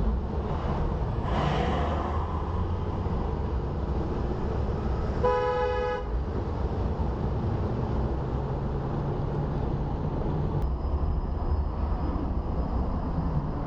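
Steady low rumble of road traffic, with a single short car-horn honk about five seconds in, lasting under a second.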